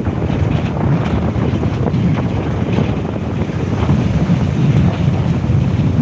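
Wind blowing across the microphone: a loud, steady low rush with irregular gusty crackle.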